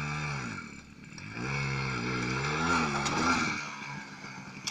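Motorcycle engine running hard: its pitch drops in the first second, then climbs and wavers as it revs up again, loudest about three seconds in before it fades away.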